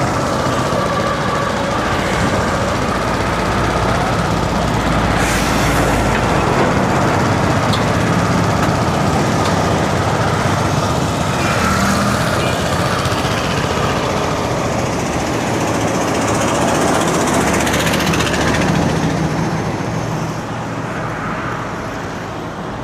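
Steady road traffic noise of passing motor vehicles, including heavy vehicles' engines, with a deeper rumble a few seconds in.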